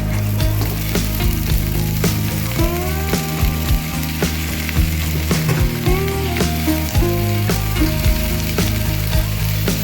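Food sizzling and frying in a hot pan, with a steady hiss and scattered crackles, over background music.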